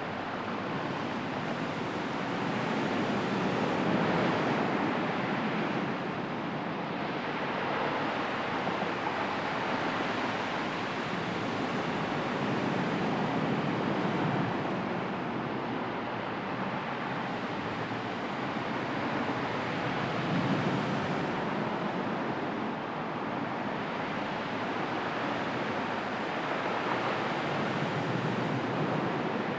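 Sea waves washing onto the shore, a continuous surf noise that swells and recedes every several seconds.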